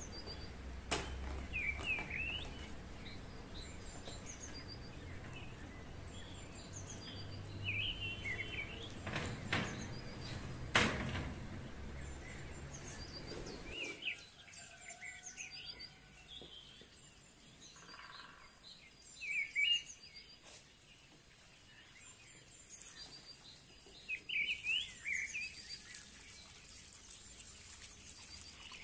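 Small birds chirping on and off. A low rumble and a few sharp knocks fill the first half, then stop about halfway through, leaving the chirps on a quieter background.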